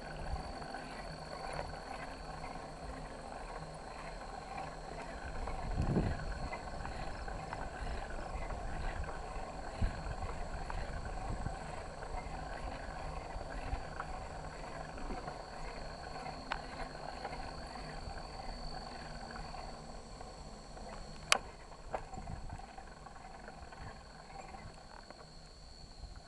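Bicycle rolling along a trail, heard from a handlebar-mounted camera: steady rolling and rattling noise with a low thump about six seconds in and scattered sharp clicks and knocks, the loudest about twenty seconds in. A faint, steady high-pitched whine runs underneath.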